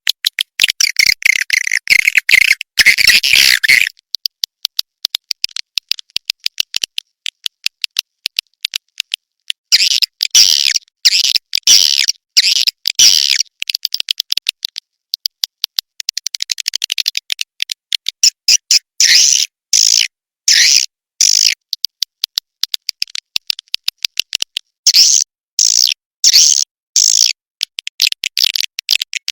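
Swiftlet calling-sound track, the kind played from swiftlet houses to lure the birds: rapid trains of sharp clicks and bursts of high chittering twitter in runs a few seconds long, with sparser clicking in between.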